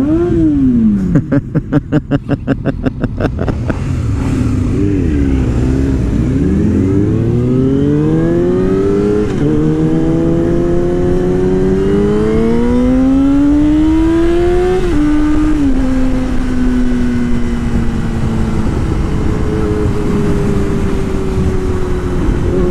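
Sport motorcycle engine pulling away from a stop: a quick throttle blip, a couple of seconds of pulsing running, then accelerating through the gears. The pitch climbs and drops back at two upshifts, then settles to a steady cruise.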